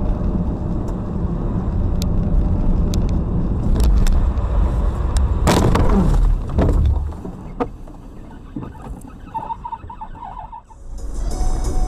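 A car on the road, with a steady engine and tyre rumble. About five and a half seconds in comes a loud, sudden noise with a falling pitch, after which the rumble drops away and it turns much quieter.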